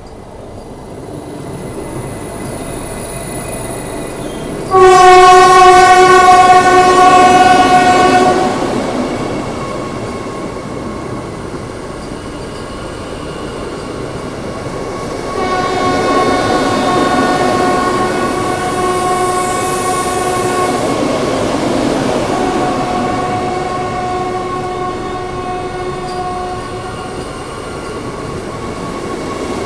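Vande Bharat Express electric train approaching on the adjacent track and rushing past close by. Its horn sounds one loud steady blast of about three and a half seconds, about five seconds in. A horn of the same pitch sounds again, more softly, for about ten seconds from the middle on, with a short break.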